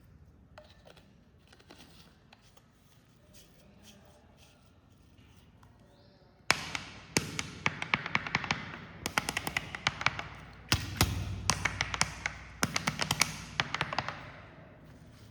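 Carbonated cola fizzing, its bubbles crackling and popping. Faint ticks come first, then a sudden loud rush of crackle about halfway through, rising again in several surges before dying away.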